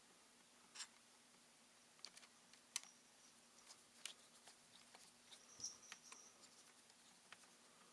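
Faint, scattered small clicks and taps of laptop parts being handled and pressed into place during reassembly, with a few sharper clicks and a brief high squeak about five and a half seconds in, over a faint steady hum.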